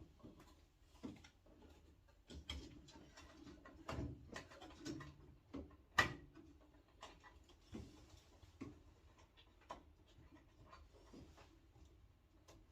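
Irregular light clicks and knocks of hand work on a boiler's parts and wiring, with one sharper knock about six seconds in.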